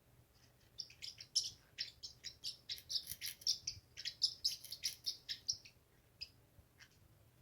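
Small pet parrot chirping: a fast run of short, sharp, high chirps, several a second, starting about a second in and thinning out to a few scattered chirps near the end.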